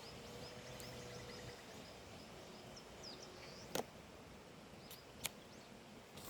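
Small birds chirping, a quick row of short high calls, over faint outdoor background noise. Two sharp clicks or taps stand out, about four and five seconds in.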